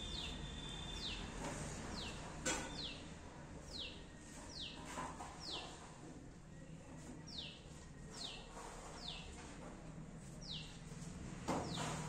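A bird repeating a short call note that slides down in pitch, about one a second, with a brief pause midway. Two sharp clicks come about two and a half seconds in and again near the end.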